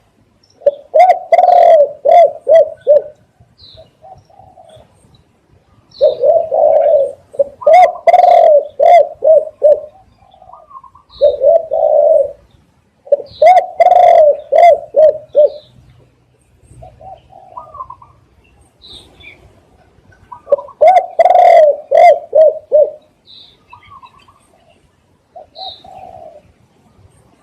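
Spotted dove cooing loudly in four phrases, each a run of several low, rolling coo notes, with gaps of a few seconds between them. Faint chirps of small birds can be heard in the pauses.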